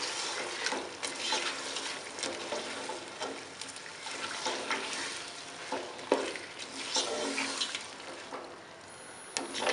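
Chicken pieces and yogurt sizzling in hot oil in a pot while a spatula stirs them, with repeated scrapes and knocks of the spatula against the pot. The chicken is being browned in the yogurt. The sizzle eases a little near the end.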